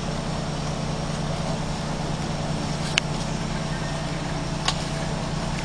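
A steady engine running with an even, constant hum, and two short sharp clicks, about three seconds in and again a second and a half later.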